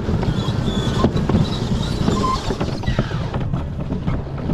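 Alpine slide cart running down its track: a steady low rumble of the wheels, with a constant rattle of small clicks and knocks.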